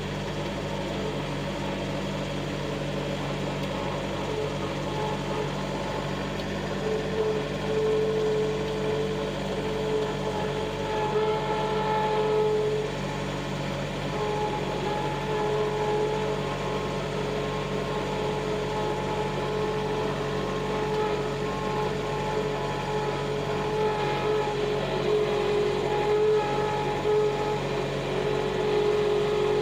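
Tractor engine running steadily while pushing snow with a blade, with a higher whine that comes and goes.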